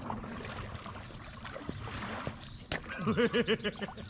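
Water sloshing and trickling around kayaks at the water's edge, with a few light knocks. Near the end comes a short, loud warbling call of about six quick swoops in pitch.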